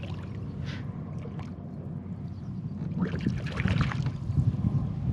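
Wind rumbling on the microphone with water around a kayak, and a brief splashing, rustling burst about three seconds in.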